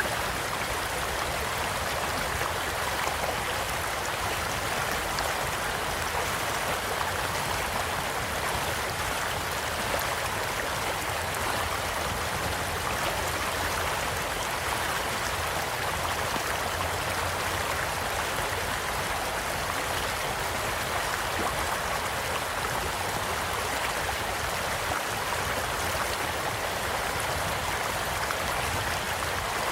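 Gentle stream flowing steadily, with a few faint crackles from a campfire, one a little louder about ten seconds in.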